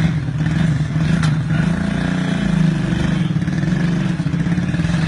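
Vehicle engine idling steadily at a low, even pitch.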